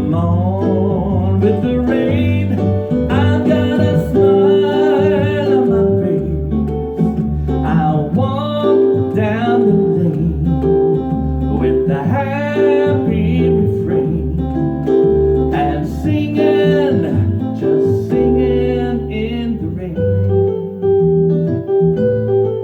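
Acoustic guitar playing an instrumental passage of a song arrangement, with a pitched melody line that wavers in pitch over the plucked notes.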